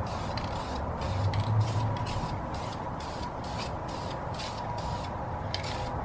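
Aerosol can of clear coat spraying in short, repeated bursts of hiss with brief gaps between them, laying a light first coat on an aluminium wheel.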